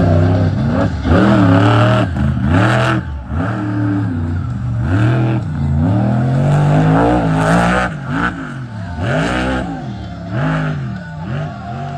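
Monster truck engine revving hard, its pitch swinging up and down about once a second as the throttle is worked, with a few short loud bursts of noise.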